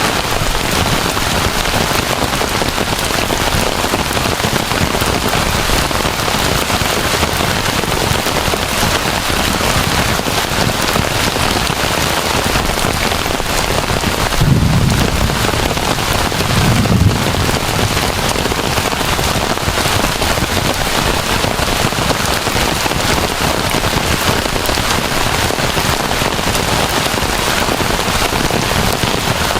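Heavy rain falling steadily, a dense even hiss. About halfway through, two brief low rumbles rise above it a couple of seconds apart.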